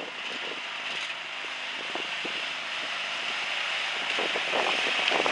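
Lawn mower engine running steadily, growing gradually louder as it comes closer, with wind rumbling on the microphone.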